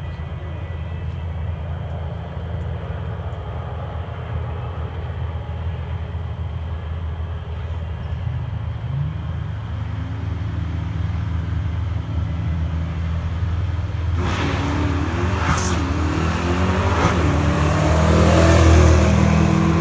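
The 1989 Mustang GT's 5.0 V8 idling steadily, then revving and, about fourteen seconds in, launching hard down the drag strip, its pitch climbing and dropping as it pulls through the gears. It grows loudest near the end.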